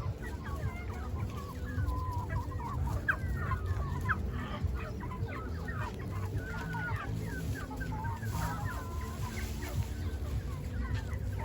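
A flock of chickens clucking and calling, many short overlapping calls at once, over a steady low hum.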